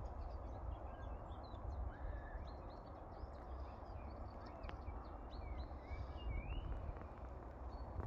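Songbirds chirping and singing: many short high chirps and whistled notes, a few sliding upward, over a steady low rumble.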